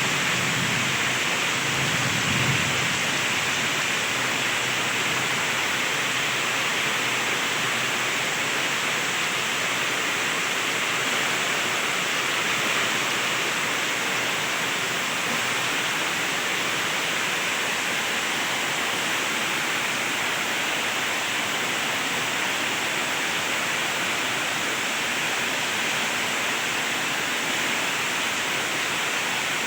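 Heavy rain falling in a steady downpour, with a low thunder rumble dying away in the first few seconds.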